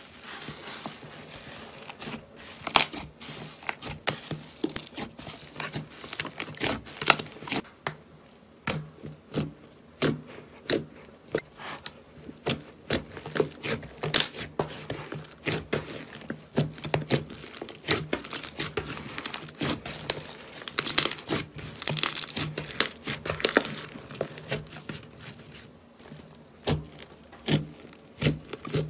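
Slime being squeezed and worked by hand, giving a dense run of irregular sharp crackles and pops.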